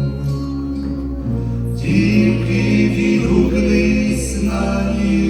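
A Christian gospel song: instrumental backing over a steady bass, with voices coming in about two seconds in and holding long notes without clear words.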